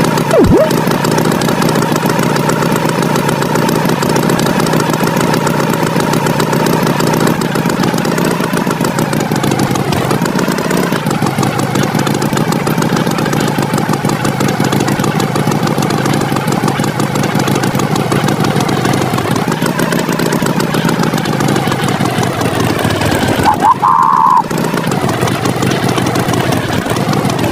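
Tractor engine running steadily, its pitch wavering slowly, with a sharp click just after the start and a short high tone near the end.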